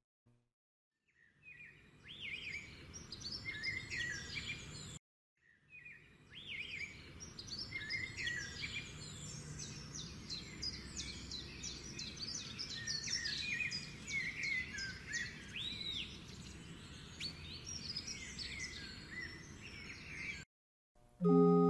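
Many songbirds chirping and whistling over a steady low background hiss. A brief break comes about five seconds in. Near the end, after a moment of silence, a steady held musical note begins.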